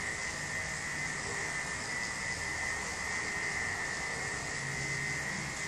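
Electric pet grooming clippers running with a steady high whine.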